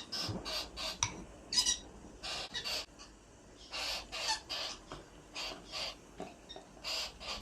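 Ringneck parakeet giving a series of short, harsh, raspy calls, about two or three a second in loose clusters.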